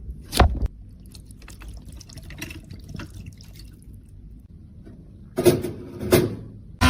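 Small close-up clicks and taps with faint crackling ticks between them, and two louder knocks near the end.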